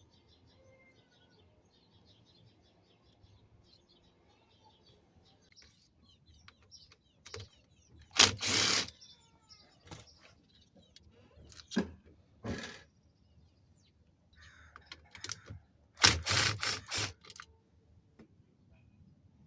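Work noises: a few short, loud clatters and rustles, the loudest about eight seconds in and again around sixteen seconds, over faint bird chirps.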